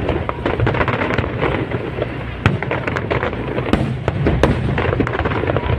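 Fireworks display: a dense, continuous barrage of overlapping bangs and crackles, with several louder bursts standing out about halfway through.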